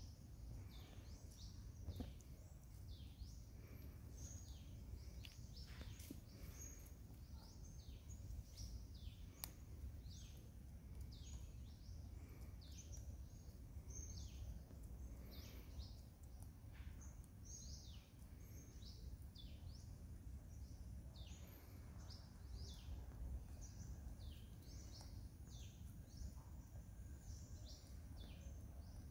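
Birds chirping over and over: short, high calls that fall in pitch, about one or two a second, over a low steady rumble.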